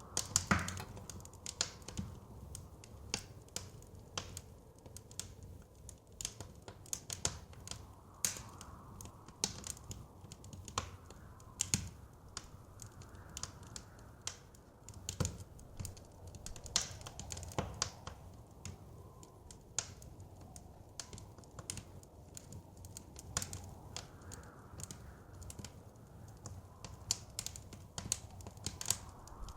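Wood fire crackling, with irregular sharp pops and snaps a few times a second, over a soft steady rush of blizzard wind.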